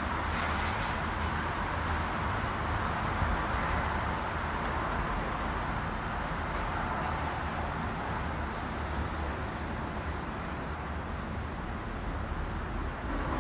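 Steady rushing outdoor noise of strong wind mixed with city traffic, with a low rumble underneath and no distinct events.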